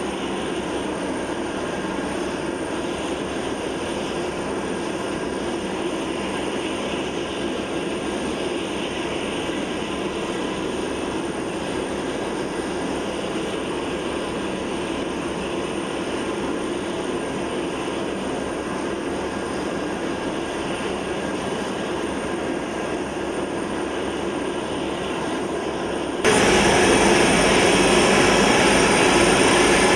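C-5 Galaxy cargo jet's engines running steadily, a broad rushing noise with a thin high whine. About 26 seconds in, it jumps suddenly louder and stays loud.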